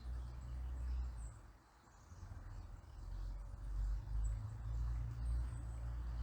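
Riverside ambience: a low rumble that swells and fades, dipping briefly about two seconds in, over a faint steady rush of flowing water, with a few faint high bird chirps.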